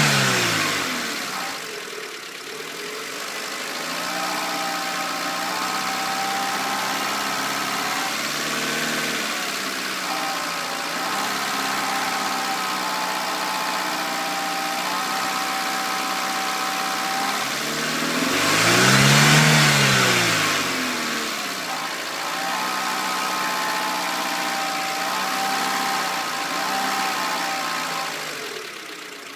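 Renault Clio 1.2 16V four-cylinder petrol engine idling with a steady whine and a rattle of unknown cause. Revs settle at the start, and it is revved once about two-thirds through, rising and falling back to idle.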